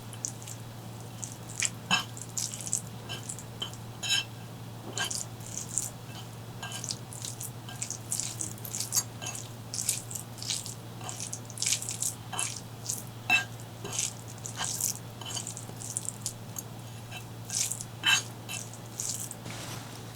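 Close-miked eating sounds: wet chewing, biting and lip smacks coming in short, irregular bursts, over a steady low hum.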